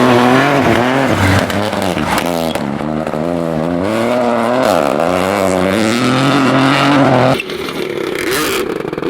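Rally car engine revving hard, its pitch climbing and dropping repeatedly with gear changes and lifts off the throttle. The sound breaks off abruptly about seven seconds in and gives way to a different engine sound.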